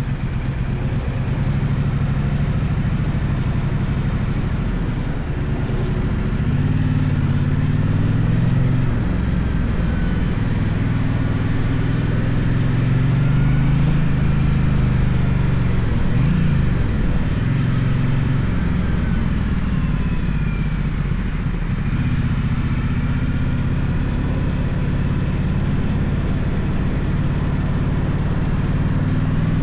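Gaokin GK1200 motorcycle engine running under way, its pitch rising and falling with the throttle, with a sharp drop and climb about sixteen seconds in.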